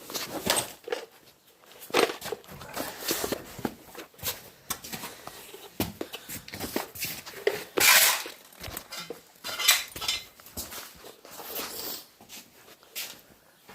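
Irregular clinks, knocks and clatter of small hard objects being handled and set down, with the loudest knock about eight seconds in.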